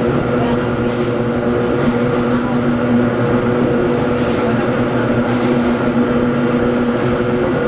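Inside a Hakone Tozan Railway Moha 1 electric car with nose-suspended SE121-A traction motors, running at steady speed. The motor and gear hum holds several constant tones over the rumble of wheels on rail.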